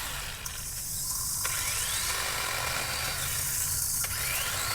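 DeWalt DCCS620 20V MAX cordless brushless chainsaw cutting thin branches. Its electric motor whine rises in pitch twice as the chain frees up between cuts.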